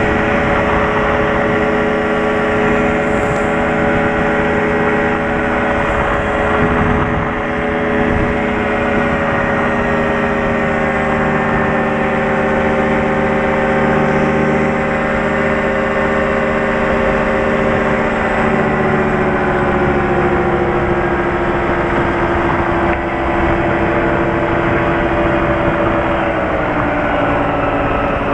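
Light airplane's piston engine and propeller droning steadily, heard from inside the cabin; over the last ten seconds or so the engine note eases gradually lower as its speed drops.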